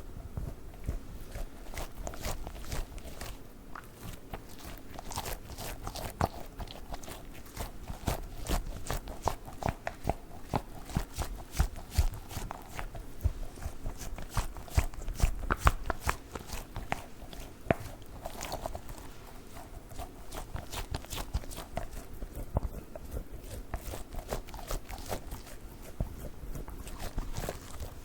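Fingers handling a squishy dog toy, making a dense, irregular run of soft crackling clicks with occasional louder ones.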